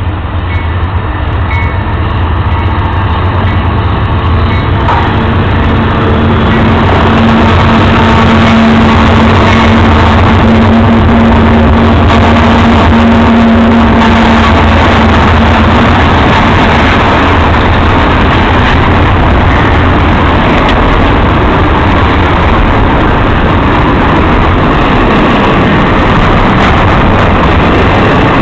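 Canadian Pacific intermodal freight train passing: the diesel locomotives' engine hum grows louder over the first several seconds, then the loud, steady noise of the train rolling by on the rails carries on.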